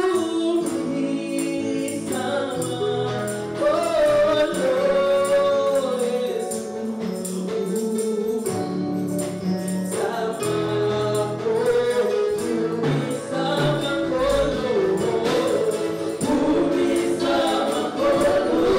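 Congolese gospel music: a choir singing praise over a steady beat with tambourine.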